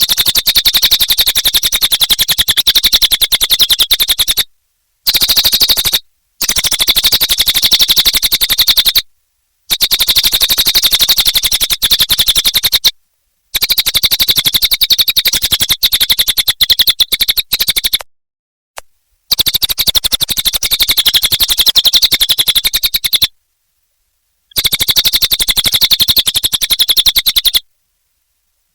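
Cililin bird singing vigorously: a loud, very fast trill pitched high, in bouts of a few seconds broken by short pauses.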